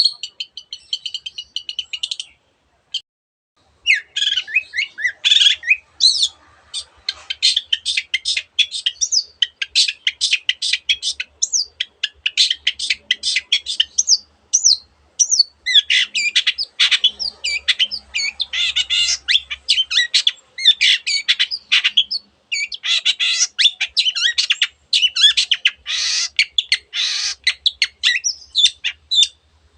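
Long-tailed shrike singing a fast, varied stream of chattering high notes with mimicked calls of other birds woven in, breaking off briefly about two seconds in before carrying on.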